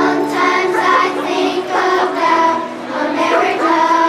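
Children's choir singing, holding and gliding between sustained notes over musical accompaniment.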